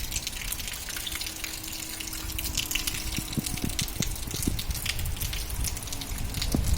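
Heavy rain falling with rainwater gushing, many drops pattering sharply.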